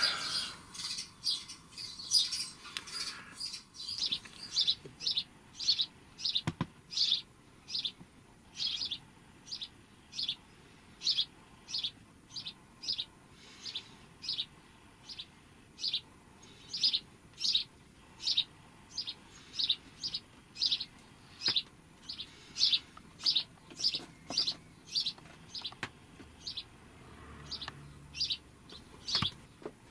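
A bird chirping over and over, a short high note repeated at an even pace, a little more than once a second.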